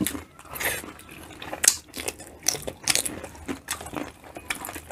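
People chewing and biting boiled shrimp: irregular short wet smacks and clicks of eating, with no talk.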